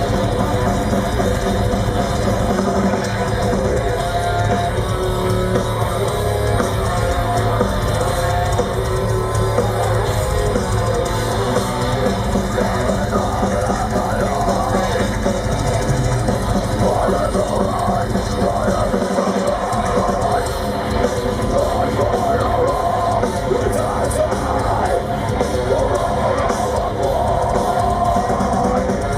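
Heavy metal band playing live: distorted electric guitars, bass and drum kit at full volume.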